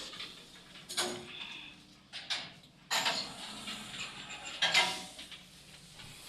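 Sliding doors of a 1988 MLZ passenger lift working, with several metallic clanks and rattles and short squeaky creaks between them: the doors creak unpleasantly.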